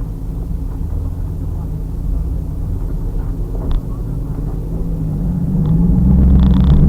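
A 2000 Pontiac Trans Am Firehawk's 5.7-litre LS1 V8 running at low speed, then pulling harder from about five seconds in, its note rising and getting louder as the car accelerates.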